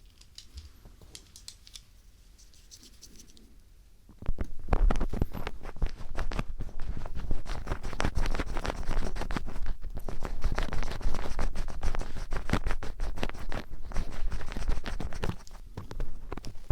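Ear-cleaning ASMR with a Phillips screwdriver: the metal tip scratching and scraping close against the microphone. The first few seconds hold faint, sparse scratches. About four seconds in it becomes loud, dense scratching and rubbing with a low rumble.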